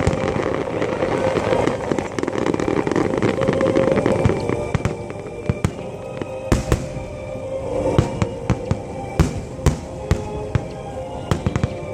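Aerial fireworks bursting: a dense crackling barrage for the first few seconds, then separate sharp bangs about once a second. The show's music plays over loudspeakers underneath.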